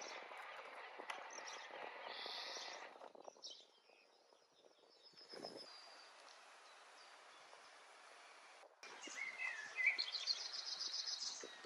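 Outdoor background noise with birds chirping; the chirps come clearest as a quick run of repeated notes about nine to eleven seconds in.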